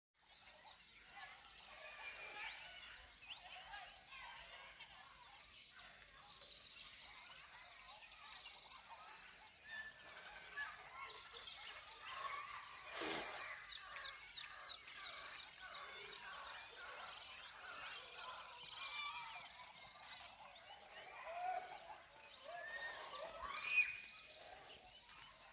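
Many birds calling at once in a dense, overlapping chorus, growing louder near the end.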